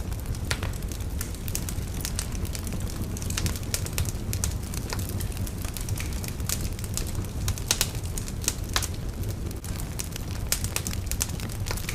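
Wood fire burning in a fireplace, crackling with frequent sharp, irregular pops and snaps over a steady low rumble of the flames.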